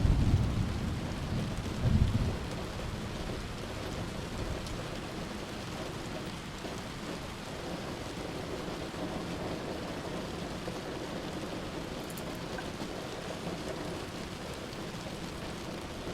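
Heavy rain falling steadily with rolling thunder. A low rumble fades over the first couple of seconds, with one more short rumble about two seconds in, then only the even hiss of the rain.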